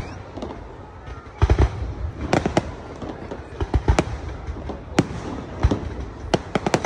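Fireworks display: aerial shells bursting in sharp bangs at irregular intervals, a little apart at first, then coming in a quick cluster near the end.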